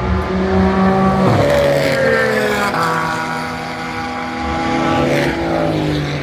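GT race cars passing at speed, their engine notes dropping in pitch as they go by: one about a second in and another near the end, with other engines running underneath.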